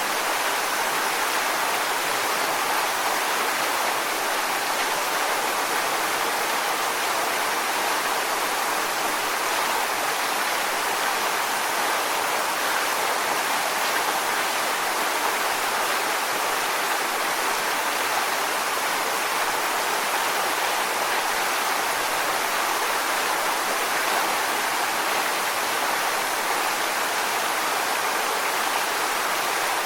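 Waterfall: a steady rush of falling water, an even hiss with little low rumble.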